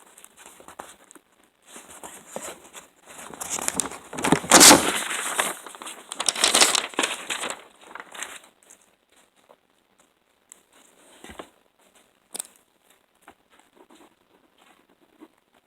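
Crinkling, rustling handling sounds, loudest about four to seven seconds in, then a few scattered clicks.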